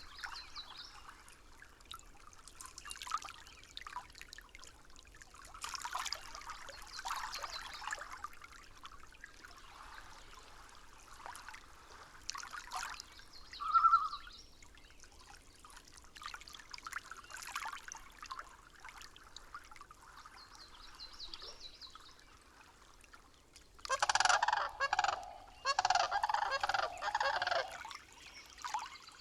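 Nature-sound ambience: faint trickling water with scattered faint bird calls and a short clear note about halfway. Near the end comes a loud run of rapid bird calls in two clusters.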